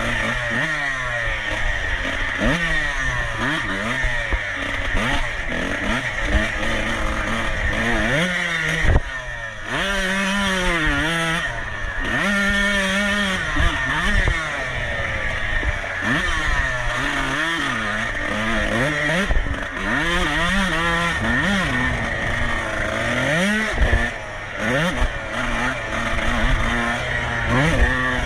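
A dirt bike's engine racing, its pitch climbing and falling over and over as the throttle is worked and gears are changed, with a few brief drops where the throttle is shut off and occasional knocks.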